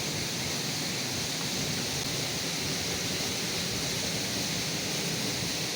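Flowing water rushing steadily, with no change in level.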